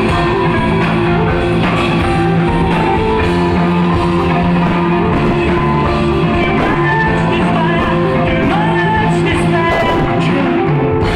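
Rock band playing live: electric guitar and drum kit with a singing voice.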